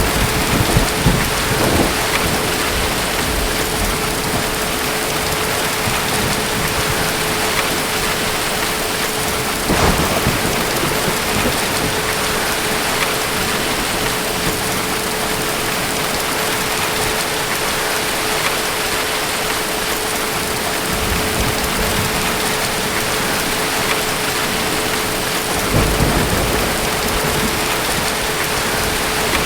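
Steady heavy rain with distant thunder rumbling low three times: at the start, about ten seconds in, and near the end. A faint steady hum runs underneath.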